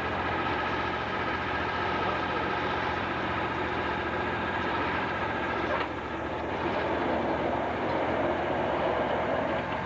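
Sawmill machinery running steadily, a constant low hum with several steady higher tones over it; a sharp click about six seconds in, after which the running sound shifts a little.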